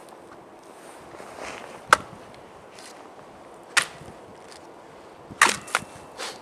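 Axe chopping into a dry log chunk, splitting it lengthwise: sharp single blows a second or two apart, with three coming close together near the end.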